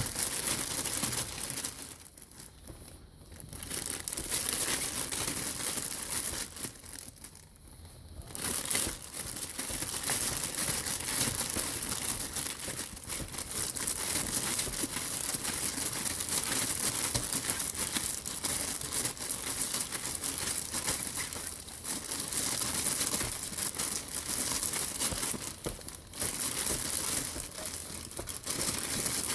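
Crinkly material being crumpled and scrunched by a small child's hands, in a dense, crackling run with two short lulls a few seconds in.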